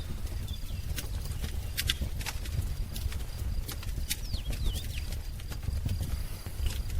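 Wood fire crackling, with irregular sharp pops over a low rumble, and a few faint bird chirps about half a second and four to five seconds in.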